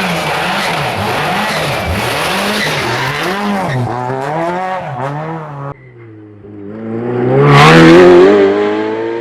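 Racing car engines: one revs with its pitch swinging up and down for the first half. After an abrupt break about six seconds in, a car accelerates hard with the engine note climbing, loudest near the end as it comes close.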